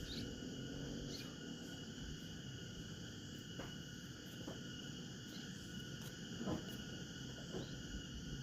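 Steady high trilling of insects, with a few sharp clicks about three and a half and six and a half seconds in.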